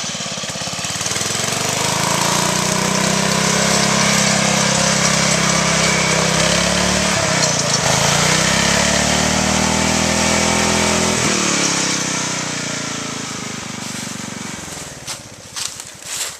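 Riding lawn mower engine revving hard under load on a hill climb, its pitch rising, dipping sharply about halfway through and climbing again, then dropping and fading over the last few seconds. A few sharp knocks near the end.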